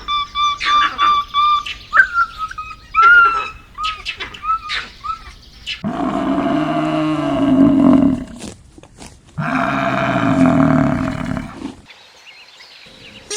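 Bird chirping in short repeated calls for about five seconds, then two long, low calls from a large animal, each about two and a half seconds, rising and falling in pitch.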